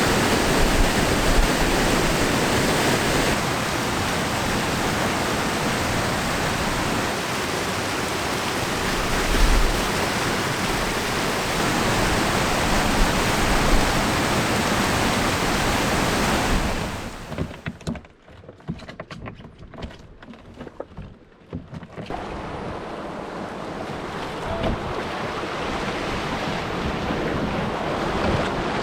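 River rapids rushing loudly as steady whitewater noise. About two thirds of the way in it drops away sharply for a few seconds, then returns somewhat quieter.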